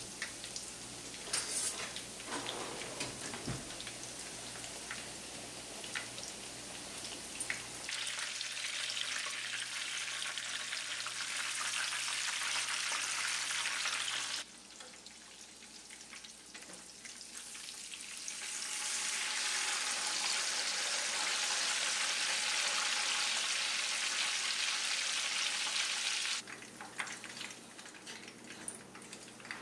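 Breaded beef milanesa cutlets sizzling in hot frying oil in a pan, a steady hiss with a few short clicks in the first seconds. The sizzle drops and rises abruptly several times, and is quieter and more broken near the end.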